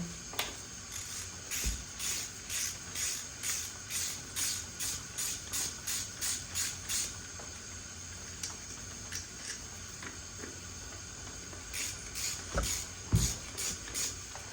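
Hand ratchet with a 12 mm socket clicking in quick, even strokes, about three a second, as the alternator mounting bolts on a Honda K20A engine are worked loose by hand. It pauses for a few seconds, then clicks again near the end along with a couple of dull knocks.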